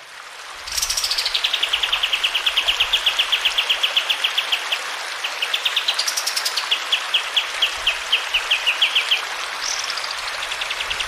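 Kapas tembak songbird singing in long rolling phrases. Each opens with a high note sliding down and runs into a fast, even trill of sharp notes, about ten a second. Phrases start about a second in, around six seconds in and near the end, over a steady hiss of running water.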